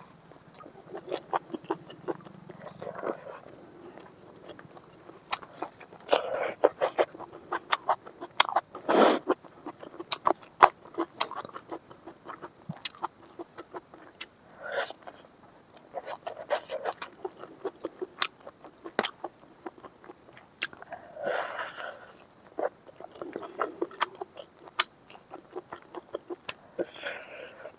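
Chewing and biting into fried chicken on the bone with rice, eaten by hand: many wet mouth smacks and clicks, with a few louder breathy sounds about nine seconds in, about two-thirds of the way through and near the end.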